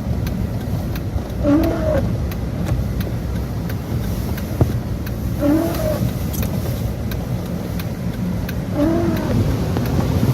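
A car driving, with steady engine and road rumble heard from inside the cabin. A short squeak that rises and falls in pitch comes back about every three to four seconds.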